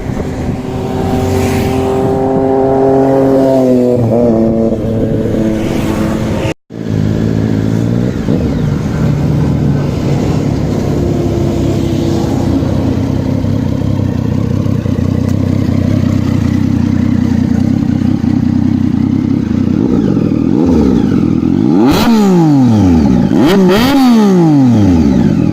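Triumph Street Triple's three-cylinder engine running through its exhaust. The note sinks in the first few seconds and cuts off sharply about six and a half seconds in. It then runs steadily, and near the end it is revved, the pitch rising and falling quickly several times.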